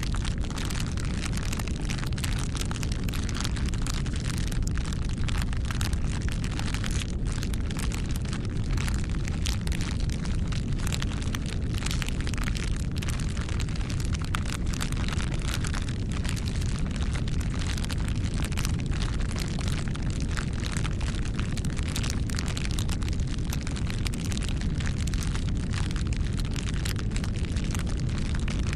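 Bonfire burning: a steady low rumble of flames with dense, irregular crackles and pops of burning wood.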